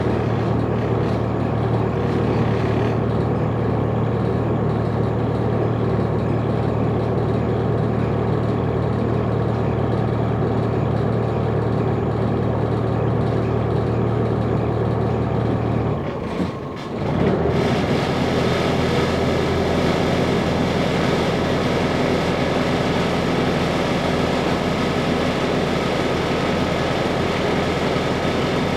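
Sightseeing boat's engine running steadily with a low hum. About sixteen seconds in it briefly dips and changes pitch, then runs on with a brighter, noisier sound.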